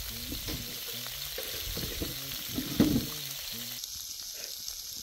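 Food sizzling as it fries in a pan, with stirring and a sharp knock about three seconds in.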